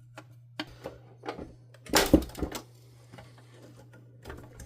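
Clicks, knocks and rattles of plastic vacuum cleaner housing parts being handled and pulled apart during disassembly, with a louder clatter about two seconds in.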